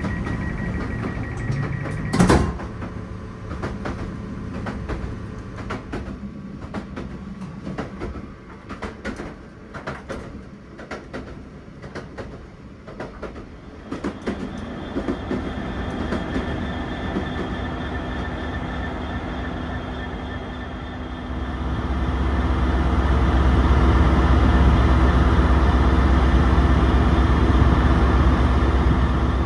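Sleeper train sounds: a steady high beep and a sharp clunk at the open carriage door about two seconds in, then the train running with a rattle of many small clicks and a steady hum. From about two-thirds of the way through, a louder deep rumble of a Class 73 diesel locomotive idling at a platform takes over.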